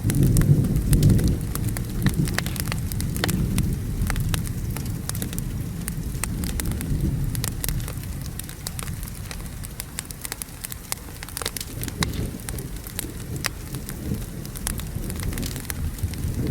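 Rain with thunder rumbling, heaviest in the first second or two, then ebbing and swelling, while a wood fire crackles with many sharp pops throughout.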